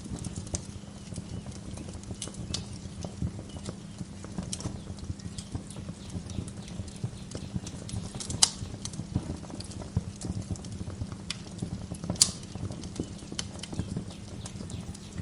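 Wood fire crackling in a fireplace: a steady low rumble of burning with constant small snaps, and two sharper, louder pops, one past the middle and one near the end.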